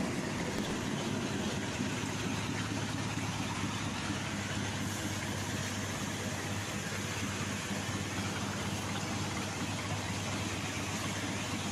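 Heavy rain falling steadily, with a constant low hum underneath.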